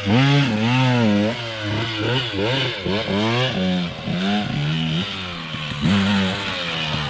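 Dirt bike engine revving up and down repeatedly, its pitch surging and dropping in quick throttle bursts about every half second to second while riding through sand.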